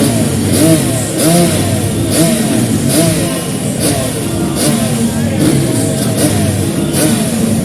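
Motocross dirt bikes revving, the engine pitch rising and falling again and again.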